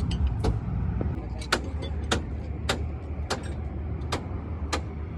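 Hammer blows landing at a steady pace, a little under two a second, over a low steady engine hum.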